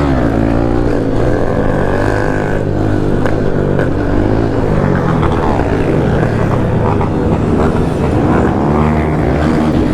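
Several motorcycle engines running together, revving up and down so their pitch keeps rising and falling and overlapping.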